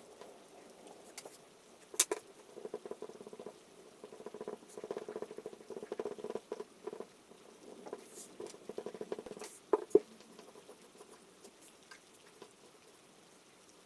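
Soft, irregular pattering and scratching that comes and goes in dense spells, with a sharp click about two seconds in and another near ten seconds, over a faint steady hiss.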